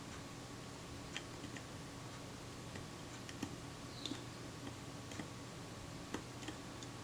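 Faint, irregular small metal clicks and ticks of a tiny screw and screwdriver working against the metal body of a Kodak Retina IIIc camera while the screw refuses to start in its thread, over a steady low hum.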